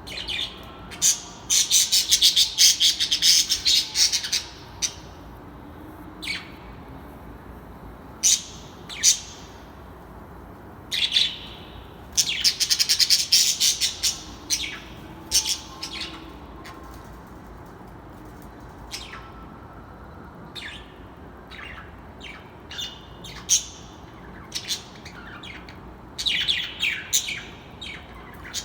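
A bird calling in three long runs of rapid, high chattering notes, with single sharp calls scattered between them.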